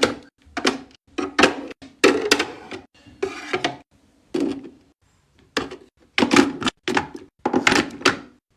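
Skincare bottles and jars set down one after another while restocking a small fridge: a quick run of about a dozen hard plastic and glass clacks and thunks, with short gaps between them.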